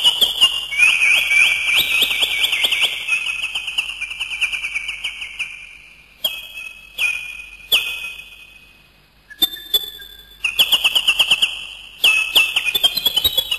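Bird calls: rapid rattling trills of sharp chirps and falling whistled notes. They run on continuously for about the first half, then come in short separate bursts with a brief lull past the middle.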